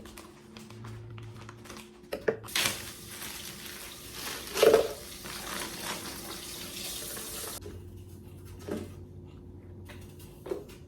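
Water running from a tap for about five seconds, then shut off abruptly, with a few knocks and clunks of things handled around it, the loudest midway through.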